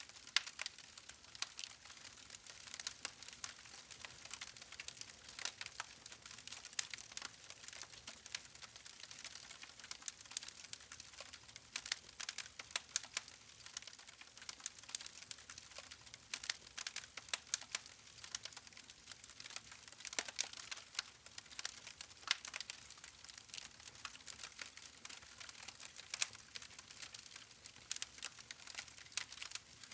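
Wood fire burning, with dense irregular crackles and pops of burning logs over a soft hiss.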